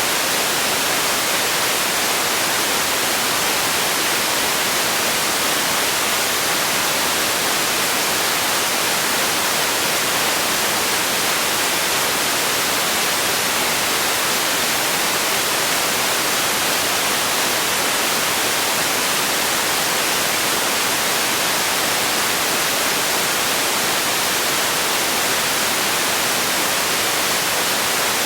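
Steady relaxation noise for sleep: an even, unbroken hiss with most of its energy in the high range and little at the bottom.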